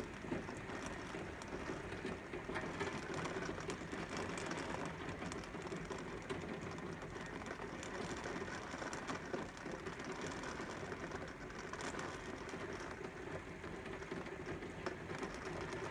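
Heavy typhoon rain and wind, a steady rushing patter with fine ticks of drops.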